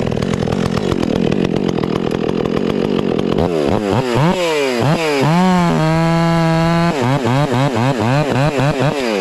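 Stihl MS 400 C two-stroke chainsaw cutting through a log at full throttle. About three and a half seconds in, its pitch swings up and down, holds steady and high for about a second, then wavers rapidly before the saw settles back into the cut near the end.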